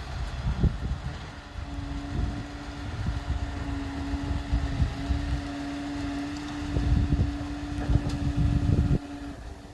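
Vehicle engine running with a low, uneven rumble. A steady hum joins about two seconds in and stops just before the end.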